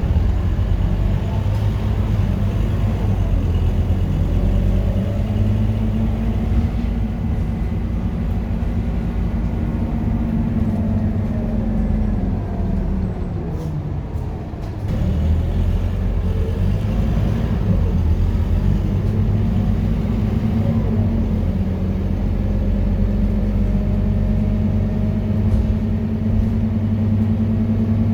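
Scania K230UB city bus's diesel engine running steadily under way. About twelve seconds in, its note drops and quietens as the bus eases off, then it picks up again and pulls away.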